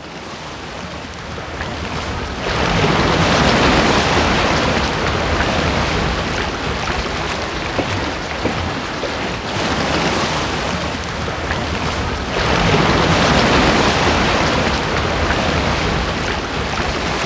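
Ocean waves: a steady wash of surf that swells into two long surges, one from about two seconds in and another from about twelve seconds in.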